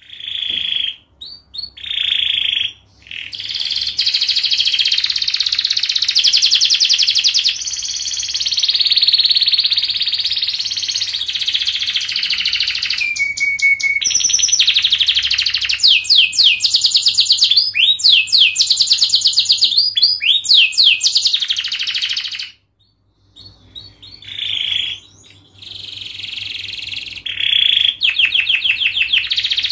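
Domestic canary singing a long, fast song of tightly packed trills and rapid rising sweeps, broken by a brief pause about three quarters of the way through.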